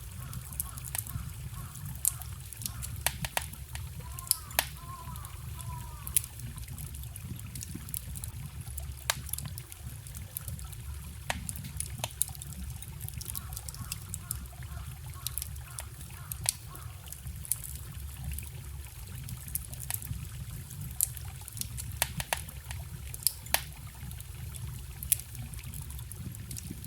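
A wood campfire crackling with frequent sharp pops over the steady rush of a forest stream. A few faint chirps come about five seconds in.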